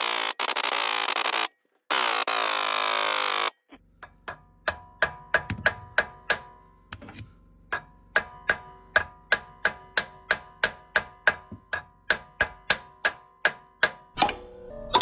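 A power tool runs loudly in two bursts of about a second and a half each. Then, from about four seconds in, background music takes over: a steady ticking beat of about three clicks a second over sustained notes.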